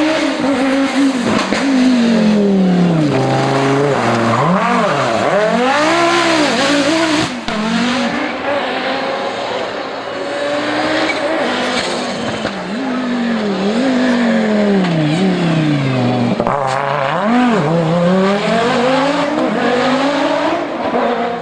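Audi Sport Quattro S1 Pikes Peak car's turbocharged five-cylinder engine revving hard. Its pitch climbs and drops again and again through gear changes and lifts off the throttle.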